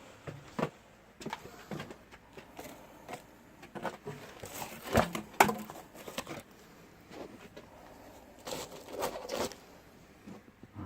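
Irregular scrapes, taps and rustles of hand work with a container of freshly mixed water-plug cement, loudest in a cluster about five seconds in and again near the nine-second mark.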